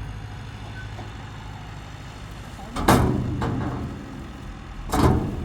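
Tractor engine running steadily, with two loud knocks or clanks about three and five seconds in.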